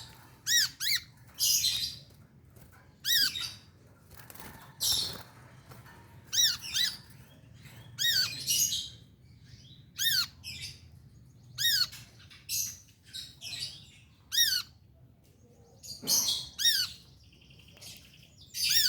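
A sunbird, known locally as 'kolibri', giving short, sharp, high chirping calls, repeated irregularly about once a second.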